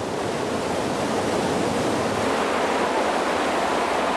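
Water rushing steadily over a river waterfall, an even, unbroken roar of falling water.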